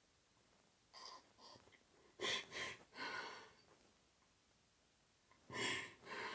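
A person breathing and sniffing in short, noisy breaths: a few soft ones, a louder cluster in the middle, and two more near the end.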